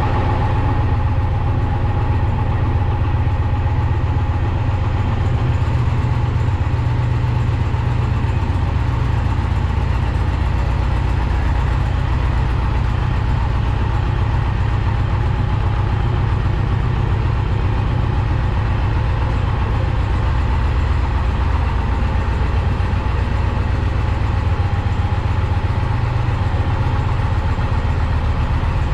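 2020 Indian Challenger's liquid-cooled PowerPlus V-twin idling steadily, with no revs.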